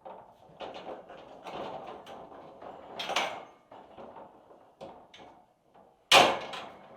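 Horse stall's sliding door rattling along its track, then banging shut with one loud bang about six seconds in.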